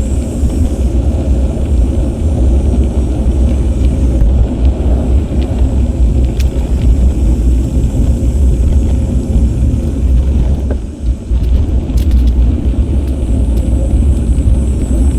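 Wind buffeting the microphone of an action camera carried on a moving bicycle: a loud, steady low rumble that dips briefly about eleven seconds in.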